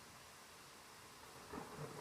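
Faint steady hiss of a thunderstorm, then about one and a half seconds in the first low rumbling crackles of a thunderclap begin to build.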